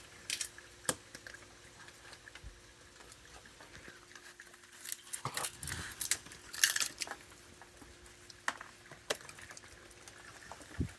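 Raccoons chewing and crunching peanuts in scattered bursts of crackling bites, the loudest cluster about two-thirds of the way through, with quieter gaps between.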